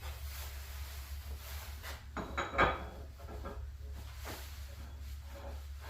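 Metal lathe faceplate being handled: a few short knocks and a rub, the loudest about two and a half seconds in, over a steady low hum.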